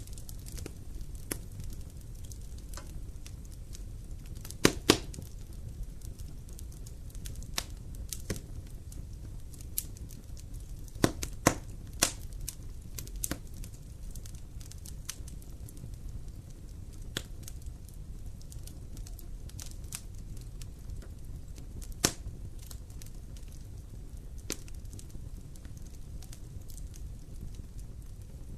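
Wood campfire burning and crackling over a steady low rumble, with scattered sharp pops; the loudest pops come as a close pair about five seconds in, a cluster around eleven to twelve seconds, and a single one about twenty-two seconds in.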